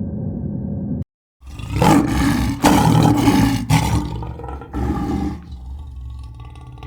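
A large animal giving a series of loud, rough calls, starting after a short break about a second in, with another call near the five-second mark before it quietens.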